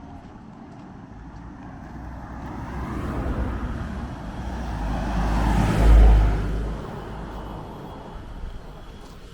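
A road vehicle, most likely a car, driving past close by. It grows louder over several seconds, passes with a low rumble about six seconds in, then fades away.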